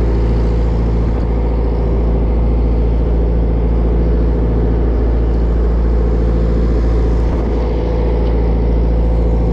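A Japanese bottom trawler's diesel engine running steadily, a low, even drone with several steady tones over it.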